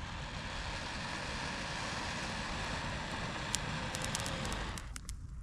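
Steady rushing of air blown into a straw tinder bundle to bring a glowing ember to flame. Sharp crackles come from the straw a little over halfway through as it catches, and the blowing stops shortly before the end.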